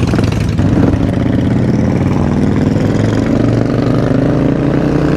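Supermoto motorcycle engine running steadily as the bike rides along, a little louder about half a second in.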